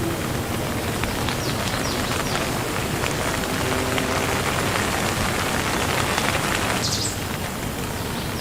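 Steady rain falling, a dense even hiss, with a few faint short high sounds sliding down in pitch; it eases slightly about seven seconds in.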